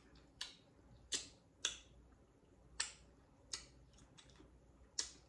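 Someone chewing crunchy nacho tortilla chips with the mouth closed: about six short, sharp crunches at irregular intervals.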